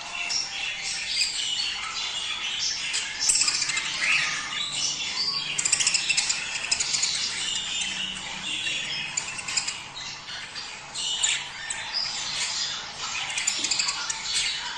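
A flock of budgerigars chattering and warbling without pause, many short chirps and squawks overlapping.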